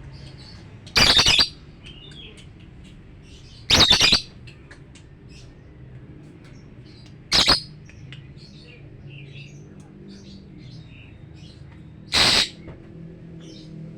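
Lovebird giving four loud, harsh calls, each about half a second long and spaced a few seconds apart, with many faint short chirps in between.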